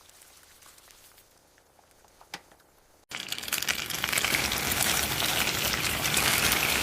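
Quiet with a couple of faint clicks, then about three seconds in a heavy downpour of rain starts suddenly and keeps up as a steady loud hiss.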